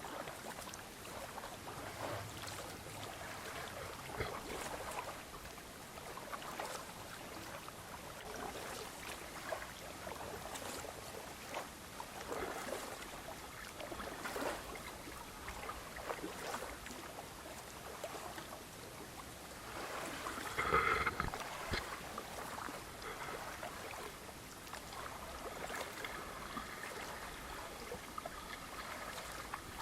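Kayak paddle strokes dipping and splashing in calm water, about one every two seconds, with a louder burst about two-thirds of the way through.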